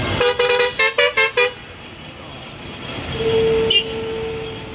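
Truck horns on the road: one horn honks about six rapid short toots, then a single long horn note sounds about three seconds in.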